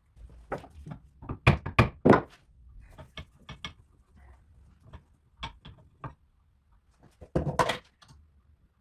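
Tools knocking and tapping on the rusted metal parts of an antique Singer sewing machine during disassembly, its parts seized with rust. A run of sharp knocks, loudest about two seconds in, with scattered lighter taps and another heavy knock near the end.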